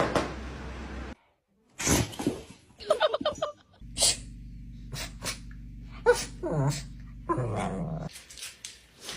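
A dog sneezing and snorting: a string of short, sharp bursts with pauses between them, some with a brief voiced, grunting tone.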